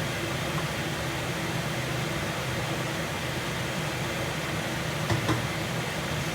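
Kitchen exhaust fan running with a steady, loud hum and rush of air. Two brief knocks about five seconds in.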